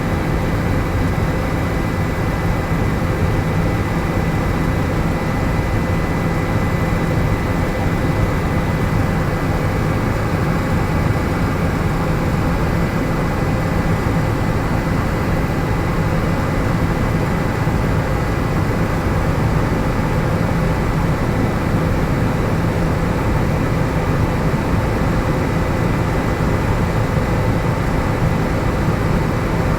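Helicopter in flight: the engine and rotor make a steady, loud drone with a thin high whine running through it.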